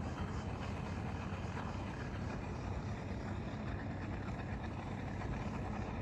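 Boat motor running steadily, a low drone on the lake.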